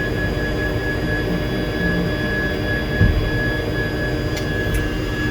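Tour helicopter's turbine and rotor noise heard from inside the cabin: a steady drone with a few constant whining tones. A brief low thump about three seconds in.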